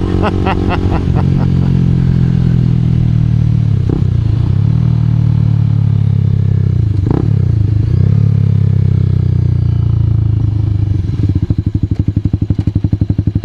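Honda CBR250R's single-cylinder engine running under way, with two brief dips in engine note about four and seven seconds in. About eleven seconds in it settles into a slower, evenly pulsing beat.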